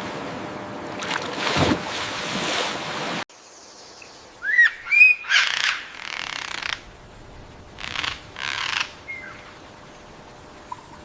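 A steady rushing noise that cuts off abruptly about three seconds in. Then a few short bird chirps and calls, with bursts of rustling noise between them.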